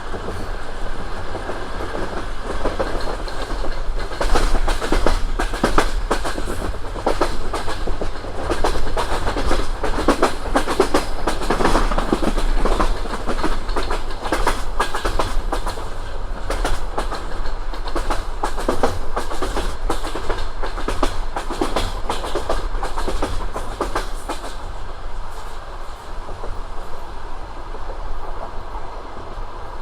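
Passenger train wheels clattering over rail joints, a quick run of clicks over a steady low rumble; the clicks thin out over the last few seconds.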